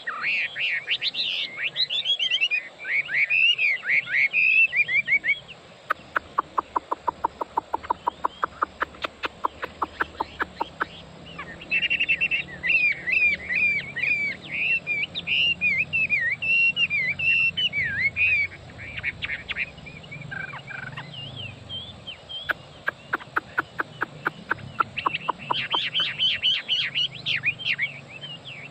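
Chinese hwamei (laughingthrush) singing a varied song: warbled, whistled phrases alternating with long runs of fast, evenly repeated notes, the first run starting about six seconds in and another near the end.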